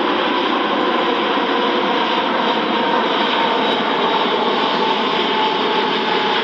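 Airbus A380's four jet engines at takeoff power: a steady, loud rushing noise with a faint high whine that drifts slightly lower.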